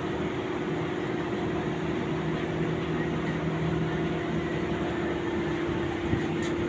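A steady mechanical hum with a constant low tone that holds throughout.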